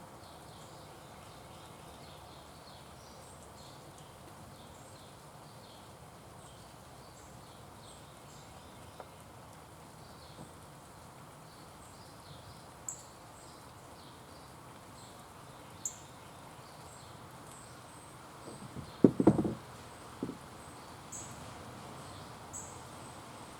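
Outdoor ambience at a backyard bird feeder: a steady hiss with faint, short, high chirps and ticks. A quick cluster of knocks about 19 seconds in is the loudest thing, followed by a single smaller knock.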